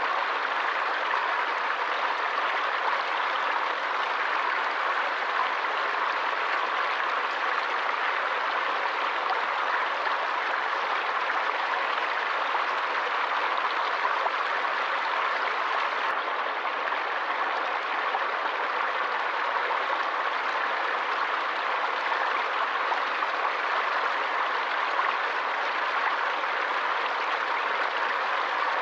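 A stream of running water flowing in a steady, even rush.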